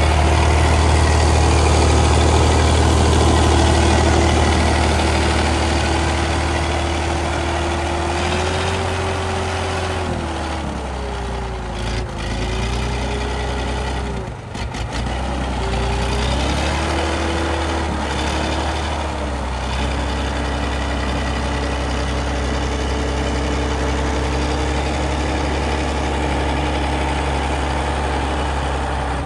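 Heavy truck's diesel engine running steadily. Its pitch rises, dips and recovers a few times about a third of the way in, then settles again.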